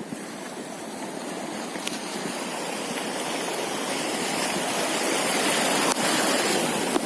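Rushing water of a stream, an even hiss that grows louder over the first five seconds or so and eases a little near the end, with a few faint clicks.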